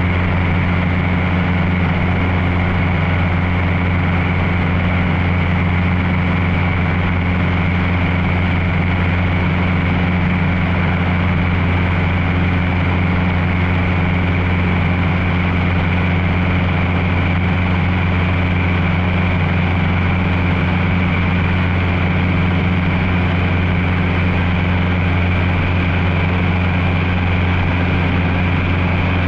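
Cessna 150's four-cylinder Continental O-200 engine and propeller droning steadily in cruise, heard from inside the cockpit: a constant low hum that does not change in pitch.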